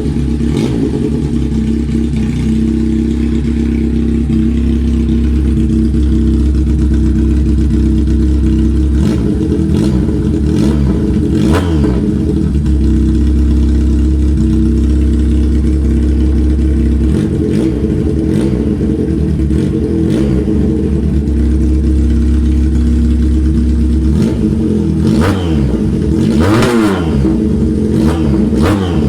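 Factory F370's engine idling steadily, revved in a few quick blips about ten seconds in and again near the end.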